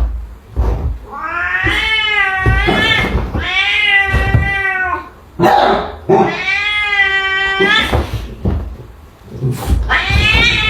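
A cat yowling: three long, drawn-out meows in a row with short pauses between, and a fourth starting near the end.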